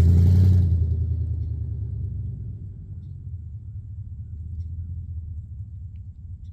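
V8 car engine idling after a cold start, a steady low rumble that is loud at first and eases off over the first couple of seconds.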